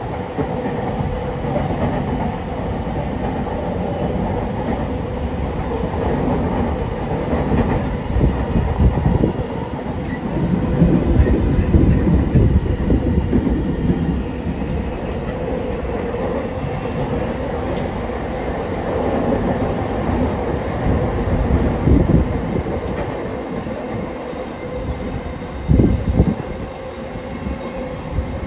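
Running noise of a Rinkai Line 70-000 series electric train, heard from inside the passenger car: a steady rumble of wheels on rail with a faint steady hum. It swells louder for a few seconds partway through, and a couple of sharper knocks come near the end.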